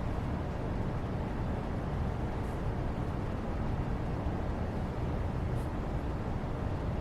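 Steady background noise, an even hiss weighted toward the low end, with a few faint light ticks.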